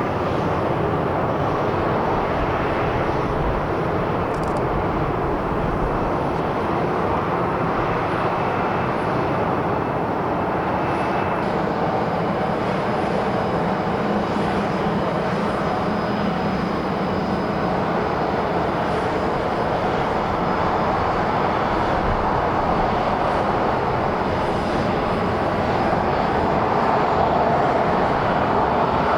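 Jet airliner engines on landing approach: a steady rushing roar that grows slightly louder near the end.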